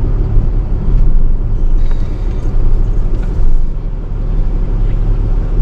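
Tow truck engine running while driving slowly, a steady low rumble heard from inside the cab.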